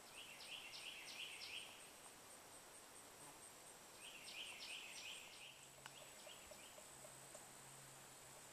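A songbird singing faintly in a swamp: two phrases of about five quickly repeated, down-slurred notes, a few seconds apart, then a softer short run of notes.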